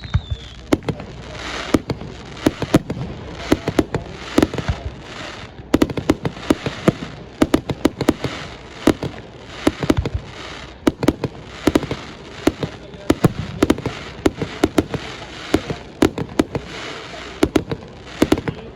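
Fireworks display: an irregular run of sharp bangs and crackling pops, often several a second, over a steady haze of noise.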